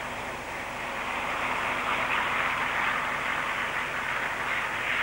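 A train running on the rails, a steady rumble and rail noise that grows louder about a second in.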